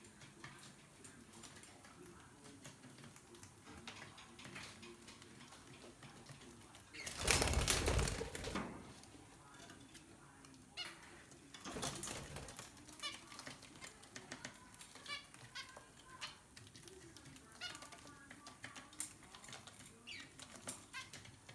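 Aviary birds giving short repeated calls that grow more frequent in the second half, with a loud rushing burst of noise about seven seconds in that lasts over a second, and a shorter one near twelve seconds.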